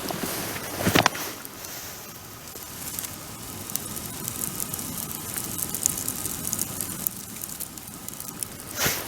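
Wood bonfire crackling, with scattered small snaps and two louder pops, about a second in and near the end.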